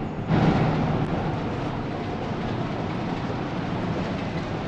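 Steady road rumble and hiss inside a moving motorhome's cabin at highway speed, a little louder after the first moment.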